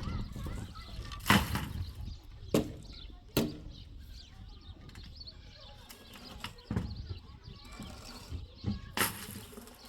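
A handful of sharp knocks at irregular intervals, over a low background rumble.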